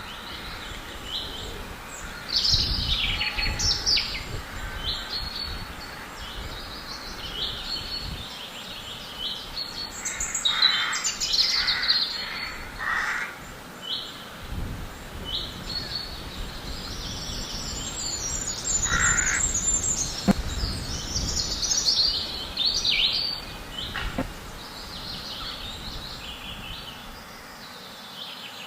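Many birds chirping and warbling without pause, with a few harsh, repeated caw-like calls about ten seconds in and again near twenty seconds. Wind gusts rumble low underneath, rising and falling.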